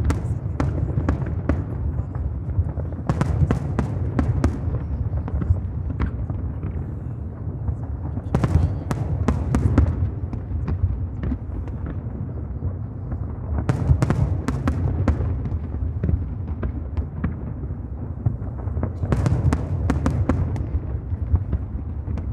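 Aerial fireworks display: repeated bangs over a continuous low rumble. Every few seconds there is a cluster of rapid sharp crackles.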